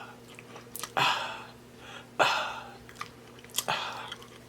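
Close-miked chewing and mouth smacking while eating: three wet, noisy bursts, each fading out quickly.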